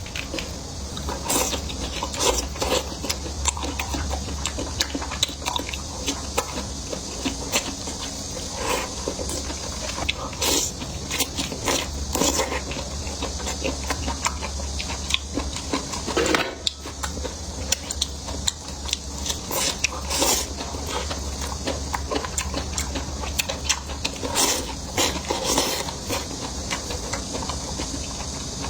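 Close-miked eating: a stream of chewing and biting noises with small clicks of utensils, over a steady low hum.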